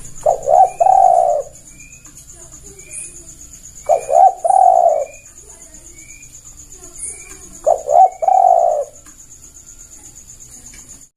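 Spotted dove (tekukur) cooing its call three times, about every four seconds: each call is two short notes followed by a longer rolling coo. Faint short high chirps repeat steadily underneath.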